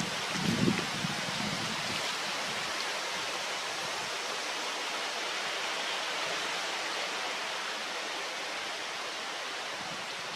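Steady rushing noise, like running water, with a few low thuds about half a second in.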